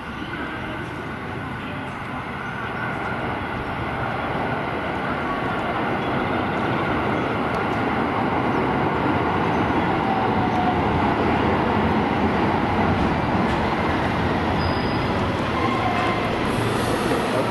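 A 5000-series and 223-5000 series electric multiple unit pulls into the station, its wheel and motor rumble growing steadily louder as it slows to a stop. A brief high hiss comes near the end.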